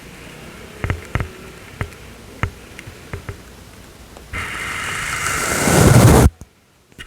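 A soft brush on the microphone: a few light taps and clicks, then one long brushing stroke that swells louder for about two seconds and stops abruptly.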